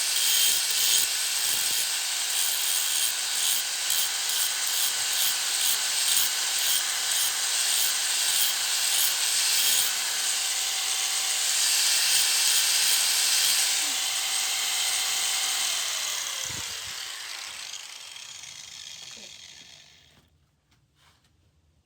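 A tool rasping on steel in strokes about twice a second. A faint whine falls away about two thirds of the way through, and the rasping dies out over the last few seconds.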